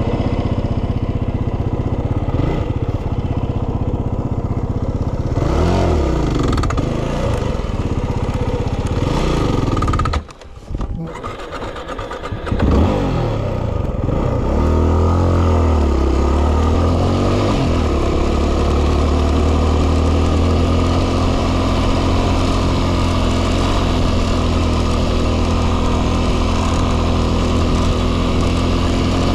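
Yamaha WR250R's single-cylinder four-stroke engine running, revving up and down a few times, with a brief drop about ten seconds in. After that it picks up and runs steadily under way, with wind noise on the microphone.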